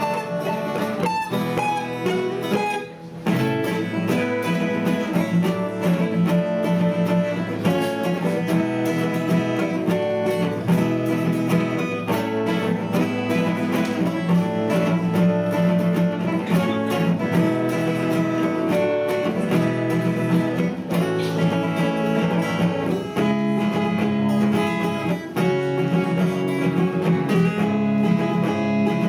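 Acoustic guitar duet playing an instrumental passage: strummed chords under a picked melody line, with a brief drop in level about three seconds in.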